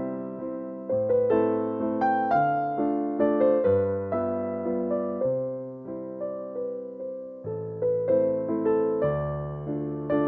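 Solo piano background music: a slow, gentle waltz in A minor, with single bass notes under a flowing melody.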